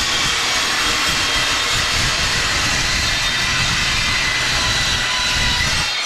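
Angle grinder with a cut-off wheel cutting through steel diamond plate: a loud, steady grinding with a high whine. It begins to spin down right at the end.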